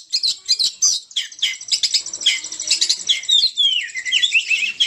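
Oriental magpie-robin (kacer) singing hard in full song: a fast, unbroken run of sharp repeated chirps that turns into quicker, gliding whistled notes in the second half.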